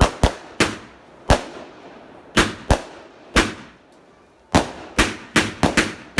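A 16-shot, 25mm-bore firework cake (Jonathon's Fireworks Ultimate Showdown) firing: about a dozen sharp bangs, each with a short fading tail. They come at irregular intervals, bunching closer together near the end.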